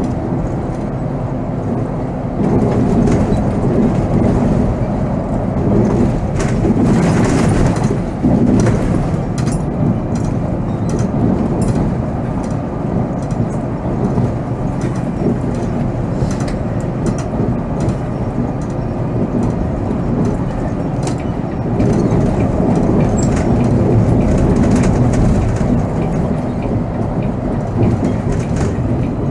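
Volvo B7R coach on the move, heard from the driver's seat: a steady low rumble from the diesel engine and road, with frequent rattles and clicks from the bodywork.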